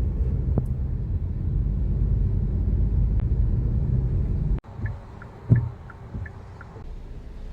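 Steady low rumble of road noise inside a moving car's cabin. It cuts off about four and a half seconds in to a quieter outdoor background with a few short high chirps and a single thump.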